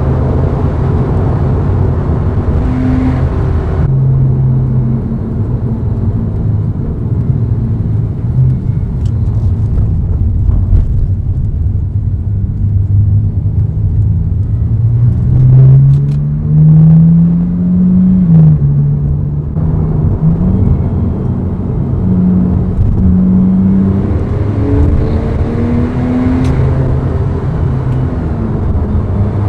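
Porsche 997.2 Carrera 4S's 3.8-litre flat-six running through an exhaust with both side mufflers removed, while driving. It runs steadily at lower revs, then rises in pitch under acceleration for a few seconds past the middle, its loudest stretch, before dropping back at a gear change and settling again.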